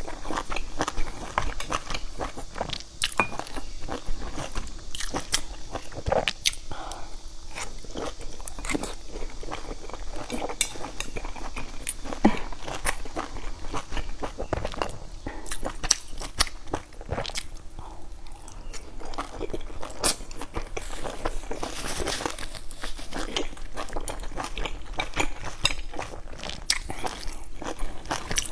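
Close-up chewing of soft boiled dumplings: wet mouth smacks and many small sharp clicks, repeating irregularly.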